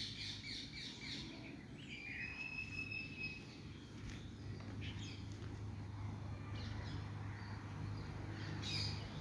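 Faint bird calls: a drawn-out whistled note about two seconds in and a few short chirps near the end, over a steady low hum.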